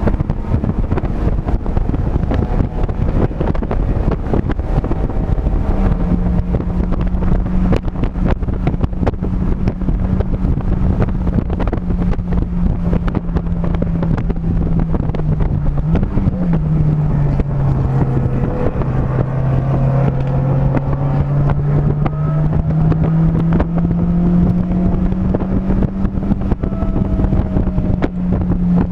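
Engine of a vehicle lapping a race track, heard onboard under a constant rush of wind on the microphone. The engine note holds steady, blips up sharply about 16 seconds in, drops lower, then climbs steadily again through the last third.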